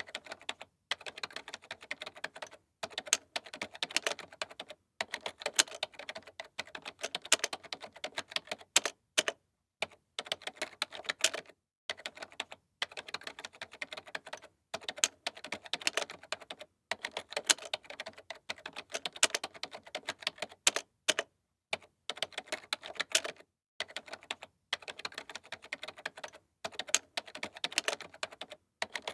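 Computer keyboard being typed on in quick runs of key clicks. Each run lasts one to three seconds and is broken by brief silent pauses.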